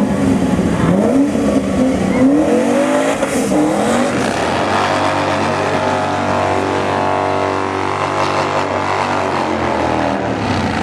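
Twin-turbo C6 Corvette V8 engine revving in rising and falling blips for the first few seconds, then holding a steady engine note for about six seconds.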